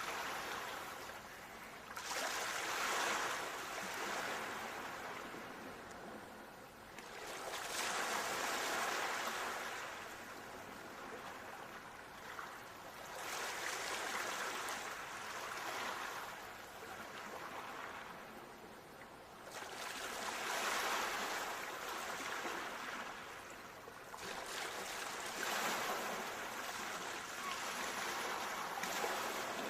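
Ocean waves washing onto a shore, the surf swelling and fading about five times, roughly every five to six seconds.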